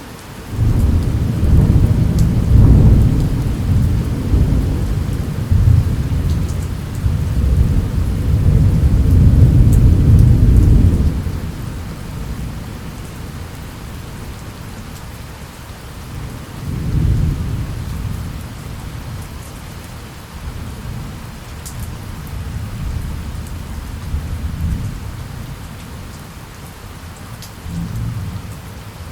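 Thunderstorm: steady rain falling, with a long, loud low rumble of thunder starting just under a second in and fading at about 11 seconds, a second shorter rumble around 17 seconds and a brief faint one near the end.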